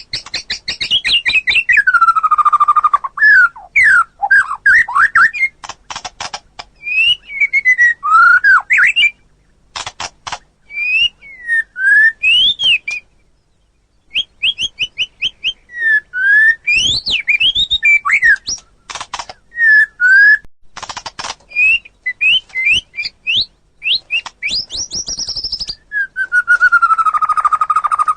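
White-rumped shama singing a loud, varied song of whistled notes that sweep up and down, mixed with sharp clicking notes, with a brief pause about halfway through.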